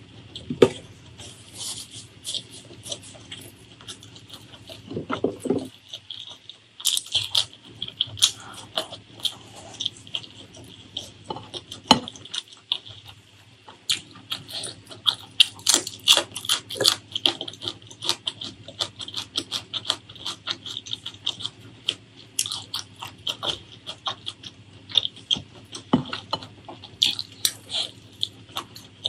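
Close-miked chewing and mouth sounds of someone eating meat curry and rice: a dense, irregular run of short clicks and smacks, a few of them louder.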